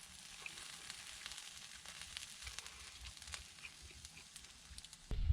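Meat sizzling on a grill over a wood fire, with many small sharp crackles in a steady hiss. Just before the end the sizzle gives way abruptly to a louder low rumble.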